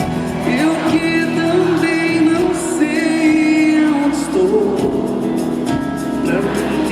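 Live concert music: a band playing the song with a sung melody over it.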